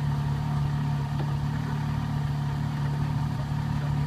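Porsche Carrera GT's 5.7-litre V10 idling steadily at its exhaust, a constant low hum without revving.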